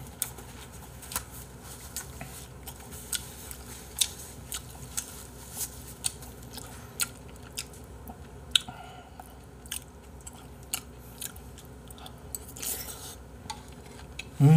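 Close-miked chewing of a mouthful of jjamppong-bap (spicy seafood noodle soup with rice), with short wet mouth clicks and smacks about one or two a second.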